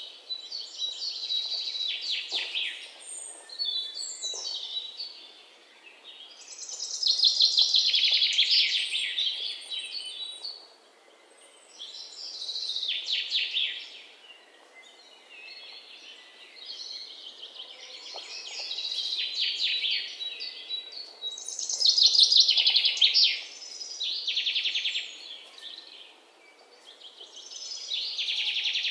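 Birds chirping and trilling: phrases of rapid high chirps that swell and fade every few seconds.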